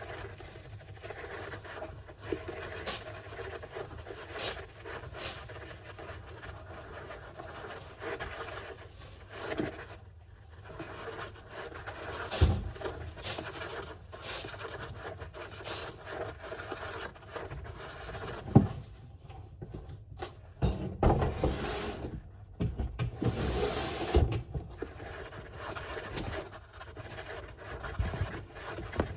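Golden hamster digging and scratching in its bath sand: a dry scraping rustle broken by scattered clicks and taps, busier and louder in the second half.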